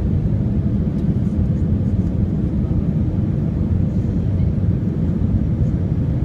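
Steady low rumble of an Airbus A319 airliner's engines and airflow, heard from inside the passenger cabin.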